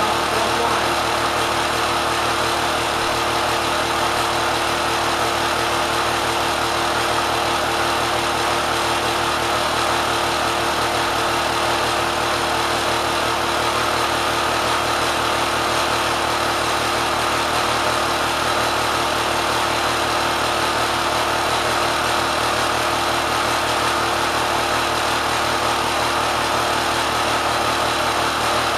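Kenmore sewing machine driven by a swapped-in 3/4 hp motor, running steadily at high speed with no change in pitch.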